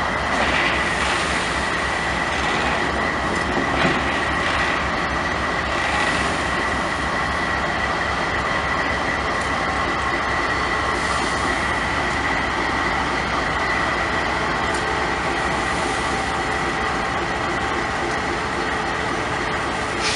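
A train rolling past, a steady loud rumble of wagons on the rails with a thin, steady high squeal of wheels throughout and a single knock about four seconds in.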